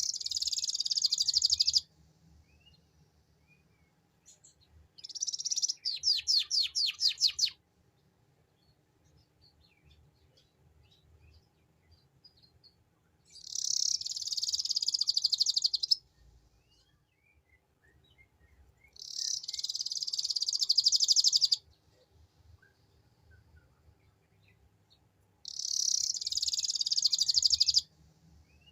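Domestic canary singing 'ngeriwik', its fast high trilling song, in five phrases of about two and a half seconds each with pauses between. The second phrase is a slower run of distinct sweeping notes.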